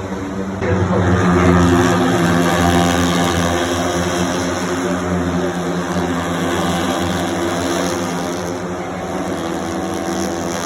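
MotoGP racing motorcycle engines running at high revs from trackside, several at once. They make a steady, loud drone that swells about a second in.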